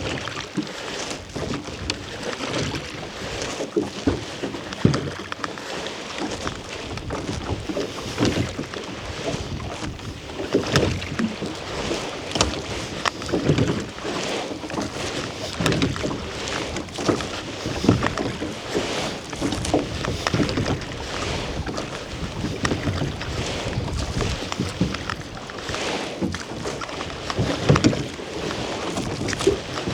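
Rowboat being rowed: oar strokes and water splashing in a steady rhythm, a surge about every two and a half seconds.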